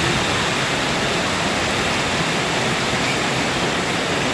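Heavy storm rain pouring down, a steady loud hiss of water.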